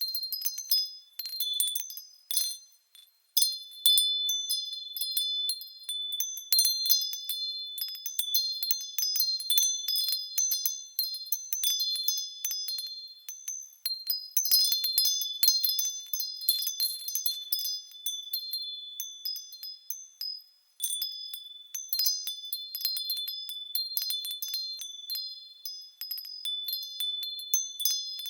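Japanese fūrin wind chimes swaying in the breeze, struck irregularly and ringing in clear, high, overlapping tones. The ringing dies away briefly about three seconds in and again about twenty seconds in before the chimes strike again.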